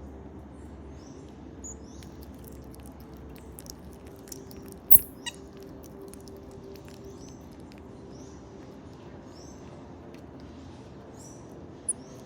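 Marmosets giving many short, high-pitched chirps, with light clicks and a sharp knock about five seconds in.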